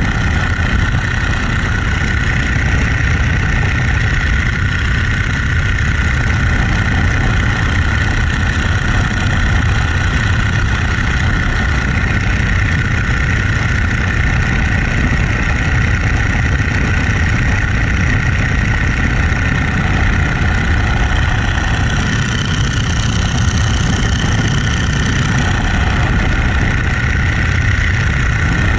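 Boeing-Stearman Model 75 biplane's radial engine and propeller running loud and steady, with a slight change in the higher-pitched rush for a few seconds near the end.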